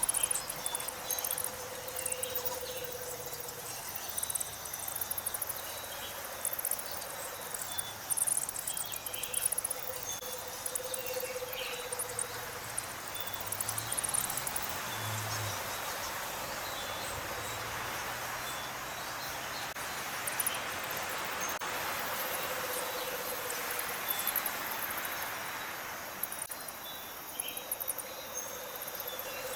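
Dusk chorus of insects chirping and trilling, with a few short bird chirps. A low hum swells and fades four times, each time for about two seconds.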